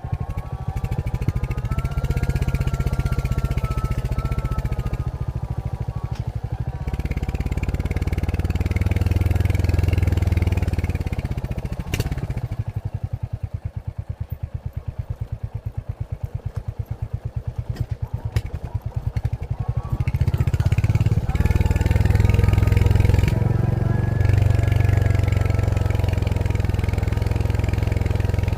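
Royal Enfield Hunter 350's single-cylinder engine running through its stock exhaust as the bike is ridden, rising in pitch as it accelerates at first. Around the middle it eases off and goes quieter, with a single sharp click, then pulls harder and louder again for the last part.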